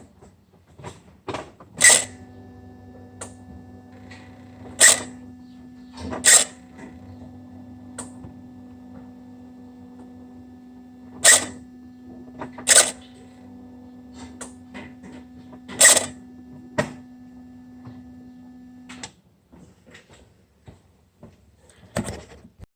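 Electronic turbo actuator on a BMW E46 330d's M57N diesel making its weird noise: a steady hum that starts with a loud click about two seconds in and stops a few seconds before the end, with about six loud, sharp clicks at irregular intervals.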